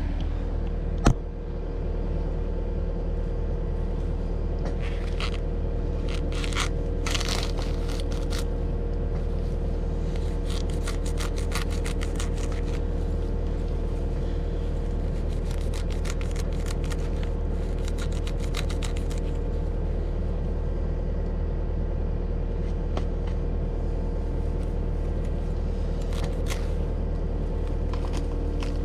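Cat 259D compact track loader's diesel engine running steadily under load while its forestry mulcher head chews through thick palmetto brush, with a sharp knock about a second in and bouts of crackling and snapping as the vegetation is shredded.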